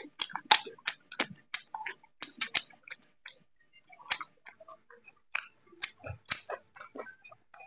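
A person chewing food close to the microphone, with quick lip smacks and mouth clicks, several a second at first, then sparser after a brief lull about three seconds in.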